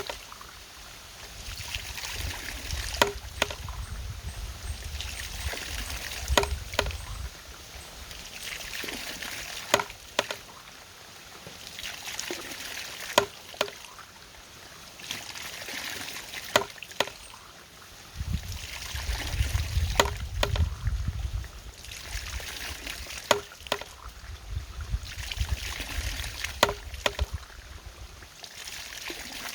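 Water running and splashing, with a sharp knock about every three and a half seconds: the regular beat of a water-driven mechanism.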